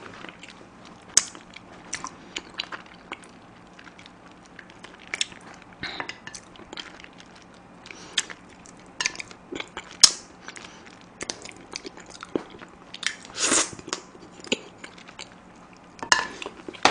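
Close-miked chewing, biting and sucking on spicy chicken feet, with small crunches. Scattered sharp clicks of chopsticks and metal bowls run through it.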